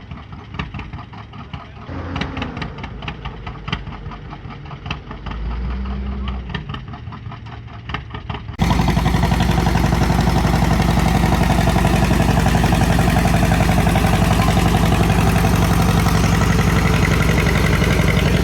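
Antique tractor engine pulling a sled, its exhaust firing in an even rhythm, with the revs rising briefly a couple of times. About eight and a half seconds in, the sound jumps to a much louder, steady engine running hard at high revs.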